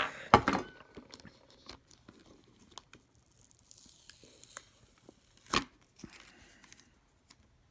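Small handling noises from hand work on the phone's parts: a few short crinkling, tearing sounds at the start, then faint rustling and one sharp click about five and a half seconds in.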